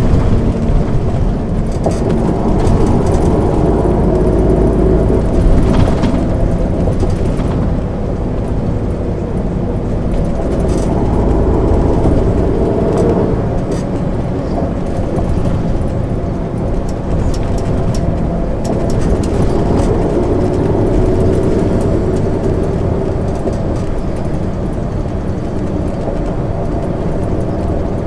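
MAN ÜL 353 intercity bus's diesel engine running on the road, its drone rising in pitch and dropping back a few times as the bus pulls away and changes speed, over a steady low rumble of road noise.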